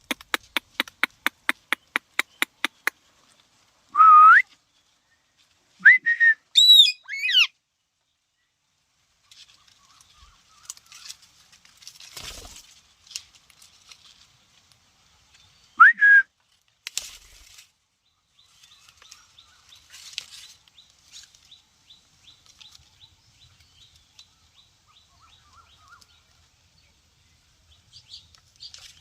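Ringneck parakeet whistling and calling: a quick run of about a dozen short repeated notes, then several separate whistles that slide up and down in pitch, with faint scratching in between.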